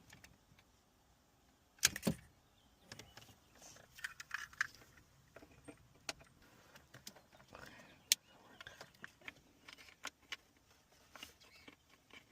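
Irregular light clicks and small rattles of plastic and metal parts being handled while a car radio is removed from a pickup's dashboard, the sharpest clicks about two seconds in and about eight seconds in.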